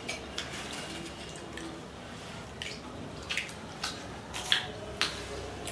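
Soft chewing and crunching of crispy fried potato French fries, with a few short, sharp clicks scattered through.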